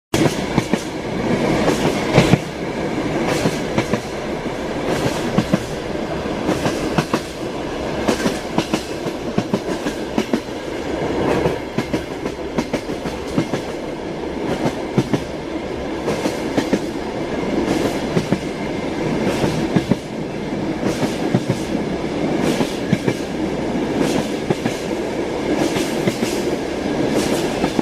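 Train wheels clacking over rail joints while the train runs at speed, with a continuous rumble beneath the repeated clicks.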